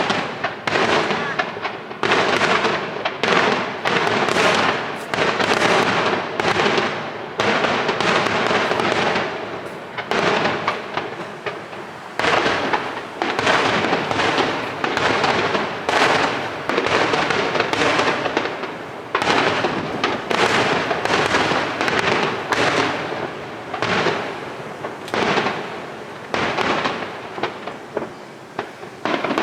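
Aerial fireworks shells bursting in quick succession, about one or two loud bangs a second, each fading into a rumbling echo.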